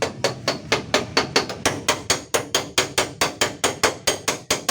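Rapid, even hammer taps on a car's sheet-metal door panel, about four to five strikes a second: a dent being tapped out in ketok magic body repair.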